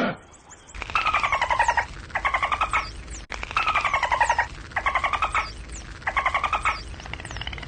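An animal giving about six short rattling calls in a row. Each call is a quick train of pulses that falls slightly in pitch, with faint high chirps above.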